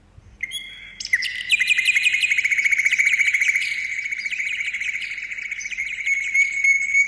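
A bird calling in a long, fast trill of high chirps.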